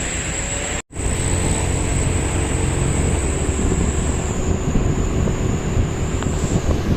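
Vehicle engine rumble and road noise, steady and loud, with a thin high-pitched whine over it. The sound cuts out completely for an instant about a second in, then resumes.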